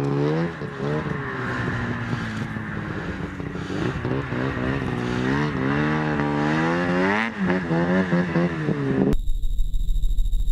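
Snowmobile engine running while riding, its pitch rising and falling as the throttle is opened and eased. It cuts off abruptly near the end and music begins.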